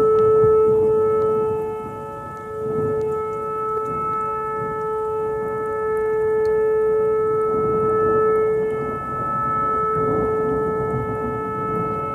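Outdoor tornado warning siren sounding one steady tone that slowly swells and fades in loudness.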